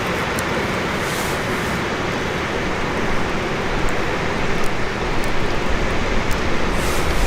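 Wood campfire burning: a steady rushing noise with a few sharp crackles scattered through it, growing a little louder and rougher in the second half.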